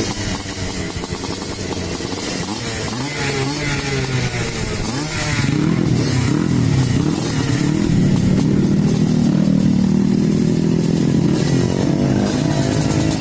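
Trail motorcycle engine revving, its pitch swinging up and down several times, then held at a louder, steadier higher speed through the second half.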